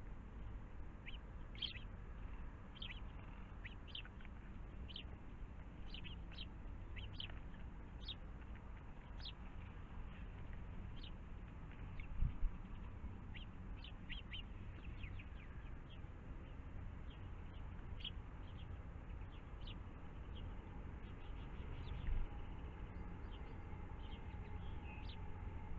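Small birds giving short, scattered chirps and tweets, over a steady low rumble, with two brief low thumps about halfway through and near the end.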